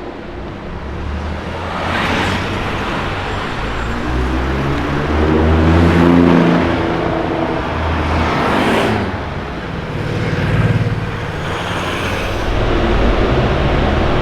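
Car engine accelerating through the gears in city traffic, its note rising around the middle, with several other cars passing by.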